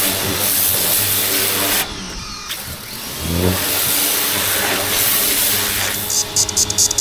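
Pressure washer running: a steady engine drone under the hiss of the water spray. The spray cuts out for about half a second around two seconds in, then resumes.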